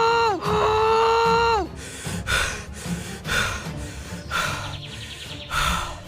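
Two long wailing cries, each held on one pitch and sliding down at the end, followed by background music with a beat of about one hit a second.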